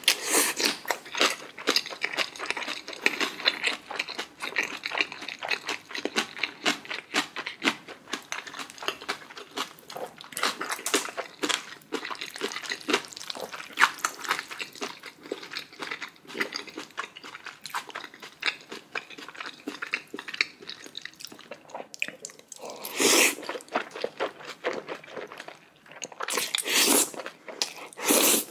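Close-miked mouth sounds of a person eating: wet chewing, biting and crunching with many small clicks, and two louder, longer bursts about 23 and 27 seconds in.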